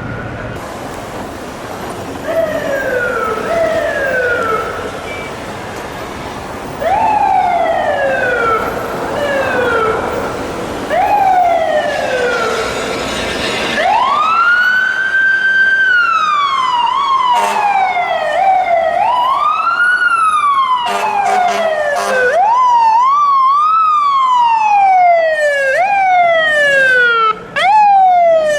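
Sirens of FDNY fire apparatus responding: several electronic sirens sweeping down in pitch over and over, overlapping. About halfway through a slower siren rises and falls, and bursts of air horn break in during the last third.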